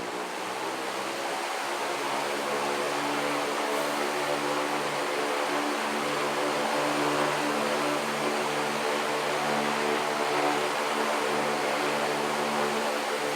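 Loren Sid Tufão 60 cm three-blade wall fan running: a steady rush of air over a motor and blade hum, growing slightly louder over the first few seconds.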